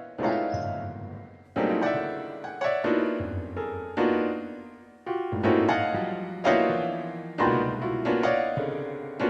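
Slow, sad piano chords, each struck and left to ring and fade, about one a second.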